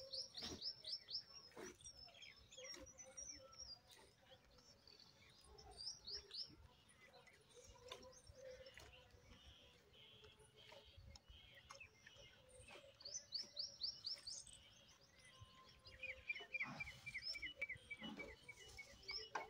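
Small birds chirping: quick runs of high, falling notes come several times, with a lower, rapid run of chirps near the end.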